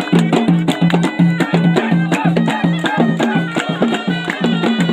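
Traditional ghaita, a double-reed shawm, playing a folk melody over a fast, steady drum beat.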